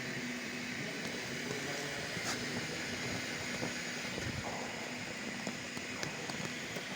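Steady mechanical hiss with a constant low hum and a few faint clicks, typical of a running steam-boiler plant.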